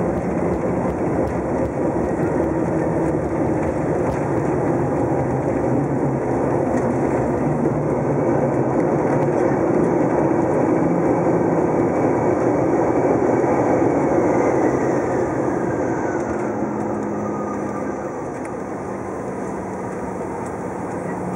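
Cabin noise of a CRJ-900 regional jet: a loud, steady rush of engine and airflow. About two-thirds of the way in, the noise eases off and a faint whine falls in pitch as the engines spool down.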